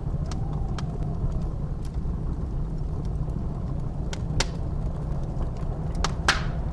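Wood fire crackling, with scattered sharp pops, the two loudest about four and six seconds in, over a steady low rumble of blizzard wind.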